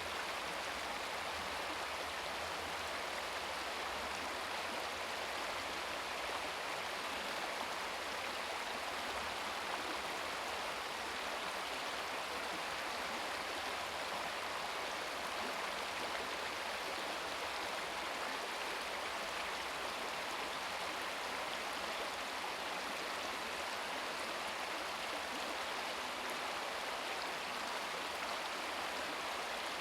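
Small brook babbling steadily over rocks, an even rush of flowing water.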